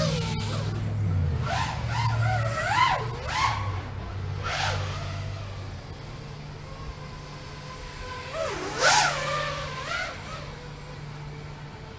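FPV drone's motors whining, the pitch swooping up and down in several throttle bursts over a steady low hum; the loudest burst comes about nine seconds in.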